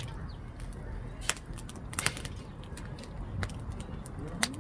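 Burning firewood in a campfire pit crackling, with scattered sharp pops over a low steady rumble.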